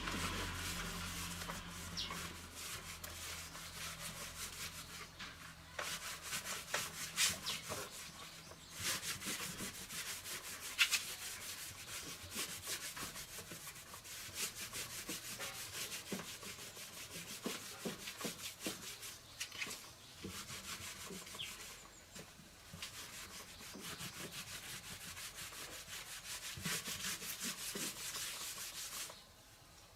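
Abrasive rubbing by hand: a steady scratchy scrubbing in quick strokes, with a few short pauses, as in sanding or scouring a part clean during a restoration.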